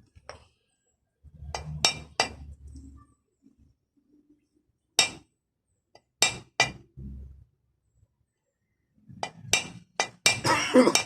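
Sharp metallic clinks and knocks of hand tools and small metal parts being handled during a car window-regulator repair. They come singly every second or so, then in a quick cluster near the end.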